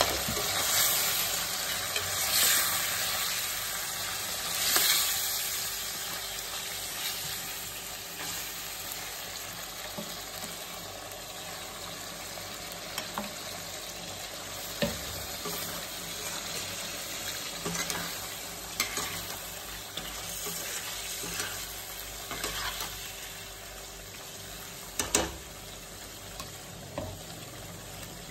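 Boneless chicken and masala sizzling in a steel kadhai while a spatula stirs and scrapes through it. The sizzle swells louder a few times in the first seconds, and a few sharp knocks are heard later on.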